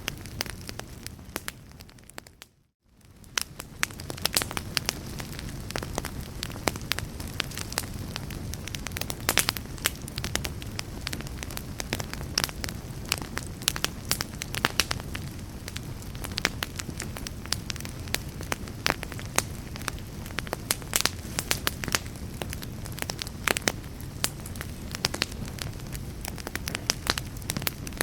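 A fire crackling, with many sharp pops over a low steady rush. About two seconds in the sound fades almost to silence, then swells back within a second or so.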